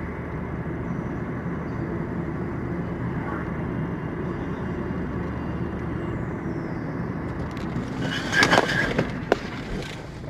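Steady engine and road noise of a moving vehicle, heard from a dashcam. About eight seconds in, a sudden loud burst of noise lasting under a second, followed by a sharp click.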